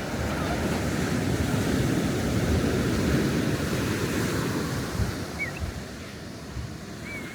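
Sea waves breaking and washing up a beach, swelling over the first few seconds and easing off after about five, with wind rumbling on the microphone.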